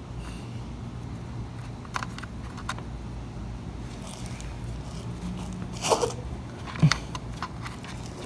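Scattered clicks and two short rattling, rustling bursts of parts and tools being handled during reassembly of a pickup's sunroof, over a steady low hum.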